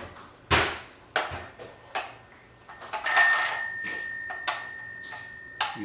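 Toy rotary telephone: a few knocks and clicks as it is handled, then a steady ringing tone about three seconds in that holds for roughly two and a half seconds.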